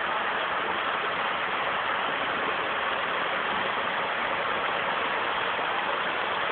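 Heavy thunderstorm rain pouring down steadily onto paving and garden, an even rushing hiss.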